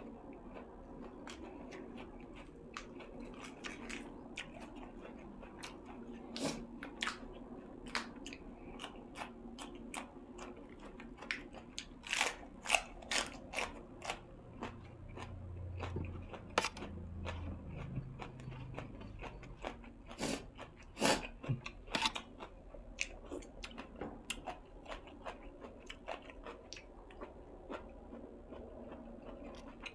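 A person chewing and biting crunchy food close to the microphone, with irregular crisp crunches that come thickest about twelve seconds in and again about twenty seconds in.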